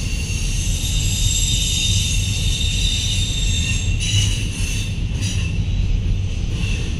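Freight train cars rolling past with a steady low rumble and a high-pitched squeal of steel wheels on the rail, strongest in the first four seconds.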